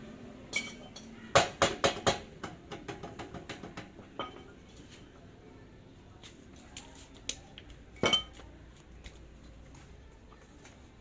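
Metal tools and parts clinking and knocking together. There is a quick run of sharp clinks in the first few seconds, then a few more about eight seconds in.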